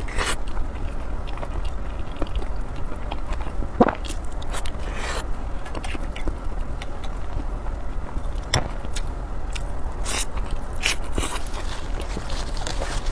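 Close-miked eating sounds: chewing with scattered sharp mouth clicks and smacks every second or two, over a steady low hum.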